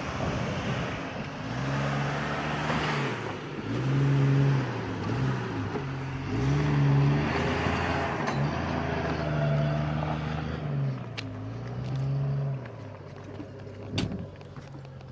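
Jeep Cherokee XJ's engine revving up and down repeatedly, then a few sharp knocks near the end.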